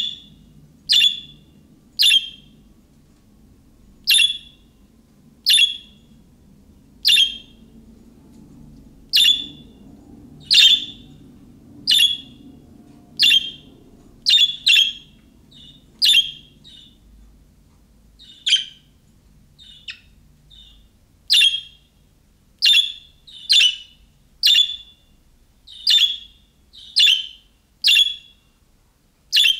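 Budgerigar giving short, sharp chirping contact calls, repeated about once a second, with a pause of a couple of seconds past the middle. It is the calling type of budgie call that the description says draws an answer from other budgies.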